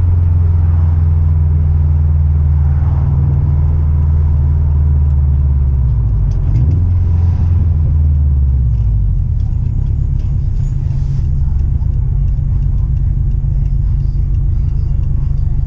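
Car engine running with a steady low drone; its pitch shifts and wavers about six to nine seconds in, then settles into a lower rumble.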